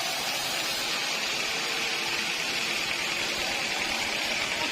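Sawmill machinery running steadily, an even mechanical noise with a faint hum.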